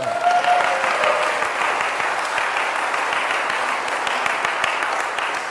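Congregation applauding, a steady even clapping, with a single voice calling out over it in the first second or so; the clapping eases slightly near the end.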